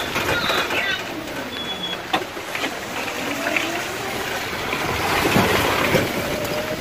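Steady rushing noise of rain and a wet road surface, with a three-wheeled auto-rickshaw passing close by around the middle.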